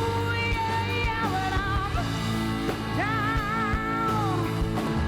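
Live rock band playing, with drums and bass under a melody line of wavering held notes.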